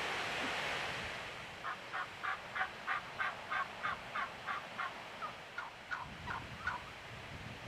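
Wild turkey calling: a run of about sixteen short, evenly spaced notes, about three a second, fading over the last few. A steady rushing noise fades away in the first second.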